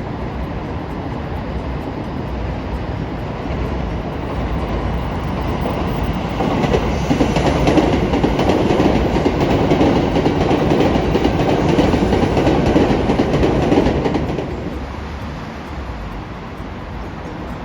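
A train passing: its running noise builds over the first few seconds, stays loud for about seven seconds in the middle, then fades.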